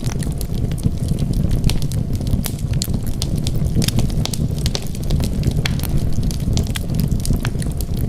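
Wood fire crackling, with many sharp irregular pops over a steady low rumble of burning flames.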